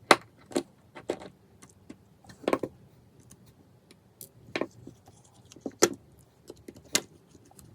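Irregular sharp clicks and taps, about seven of them, of small hand tools and parts being handled while a screw is removed from an iPhone 5s during disassembly.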